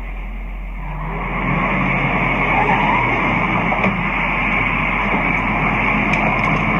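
A car's engine running, heard as a steady noisy rumble that comes up about a second in.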